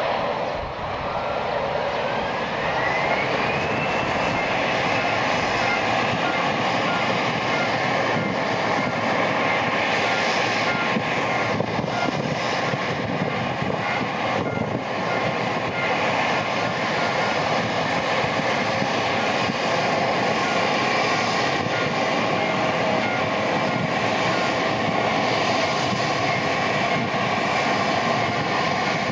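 Boeing 737-800's CFM56 turbofan engines running loud and steady, their whine rising in pitch about two seconds in and then holding level.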